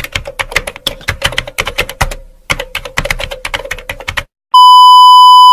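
Computer keyboard typing sound effect: rapid key clicks for about four seconds, with a brief pause midway. Then comes a loud, steady, single-pitch beep.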